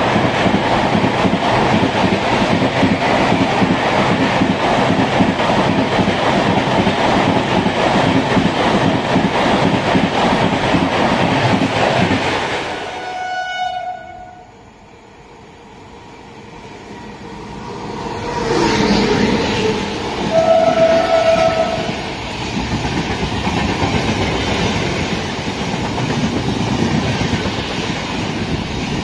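Indian Railways express train with LHB coaches running through a station at speed, wheels rattling and clattering on the track. Partway through the sound cuts to a much quieter stretch. A second train then approaches and sounds a short horn blast, and its coaches rumble past.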